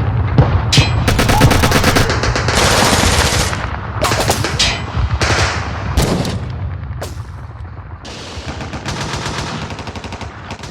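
War-film gunfire sound effects: machine-gun fire and gunshots in rapid bursts, dying down over the last few seconds.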